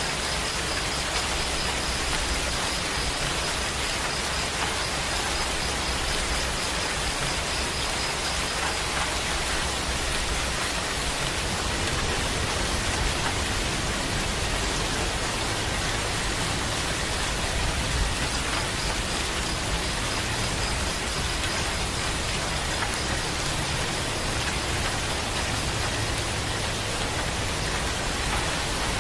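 Steady heavy rain falling and pattering on surfaces, an even unbroken hiss. A faint high-pitched pulsing trill runs through the first third and again later.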